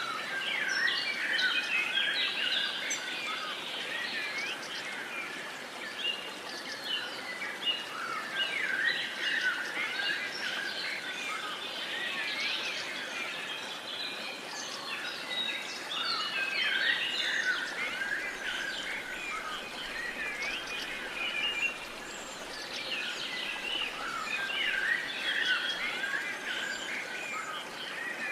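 Many songbirds singing and chirping at once, a dense chorus of overlapping calls over a faint steady background hiss.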